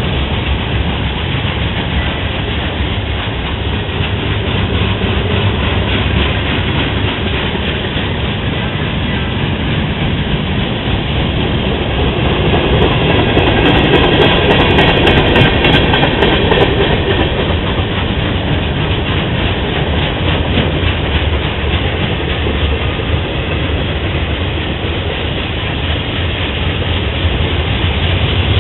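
Freight train's cars rolling past, their steel wheels running over the rails in a steady din, swelling a little about halfway through.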